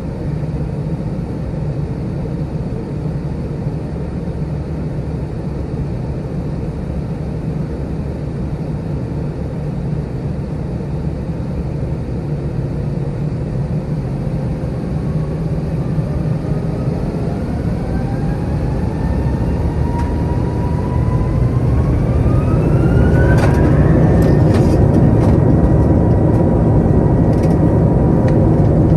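Airbus A321's IAE V2500 turbofan engines heard from inside the cabin: a steady rumble at first, then a whine that rises in pitch over about ten seconds as the engines spool up to takeoff thrust, then holds steady and louder. A few sharp clicks or rattles come near the end as the thrust settles.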